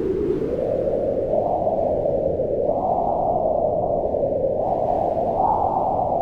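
Wind blowing steadily: a low rush that swells and eases in gusts every second or two.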